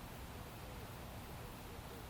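Palm fronds rustling softly in a steady breeze, a faint even hiss.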